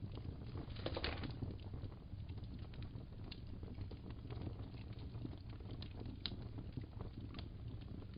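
Wood fire crackling in a fireplace: a steady low rumble with scattered sharp snaps and pops, and a brief denser burst of crackle about a second in.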